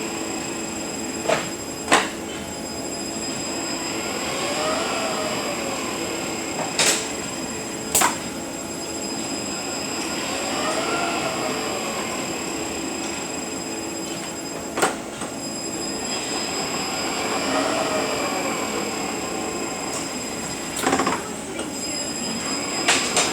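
Eaton Fuller RTO-11707LL truck transmission running on a test dyno after repair. Its gear whine rises and falls in pitch about every six seconds over a steady high whine, with sharp knocks several times, some in close pairs.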